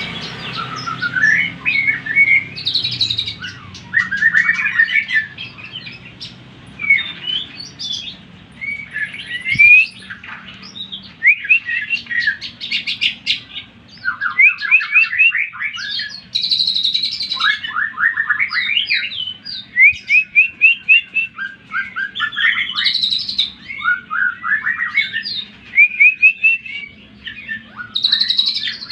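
Green leafbird (cucak ijo) singing a loud, varied song of quick whistled phrases and rapid rolls of repeated down-slurred notes, with short breaks between phrases.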